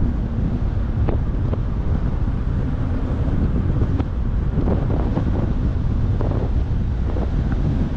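Strong wind buffeting the microphone, a steady low rumble, with a few faint clicks.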